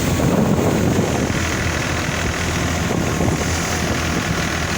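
Tractor engine running steadily under load, driving a grain thresher, with the thresher's drum adding a broad whooshing rush over the engine hum.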